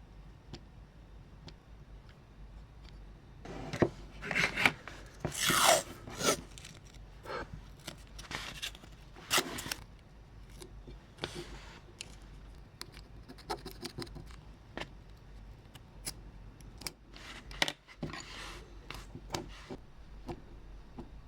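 Small parts and tools being handled during model-train restoration work: irregular clicks, scrapes and rubbing, busiest in the first half and again near the end.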